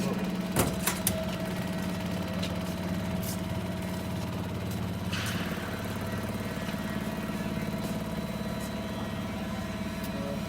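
A 30 kW industrial microwave powder sterilization machine running with a steady hum and a constant thin whine. There are a couple of sharp clicks just after the start and a brief hiss about halfway through.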